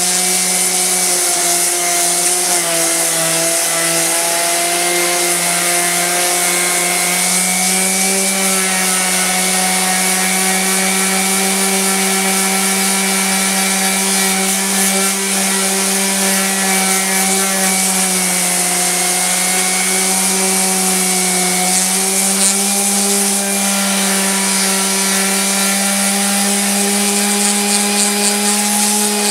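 Black + Decker 230-watt random orbital sander running steadily under load, a constant motor whine over the hiss of sandpaper on wood as a plank is sanded.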